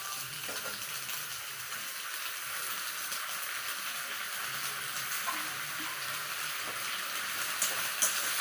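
Tomato gravy sizzling steadily in a kadhai over a gas flame on full heat, with a few light clicks of the stirring spoon near the end.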